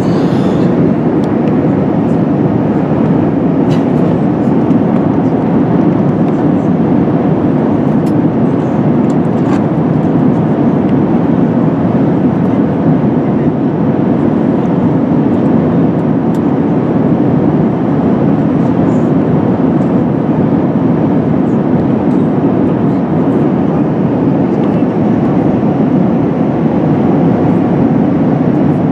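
Steady rushing cabin noise of an Airbus A380 in flight, airflow and engine noise heard from inside the cabin, low-pitched and unchanging, as the airliner begins its descent from about 35,000 feet.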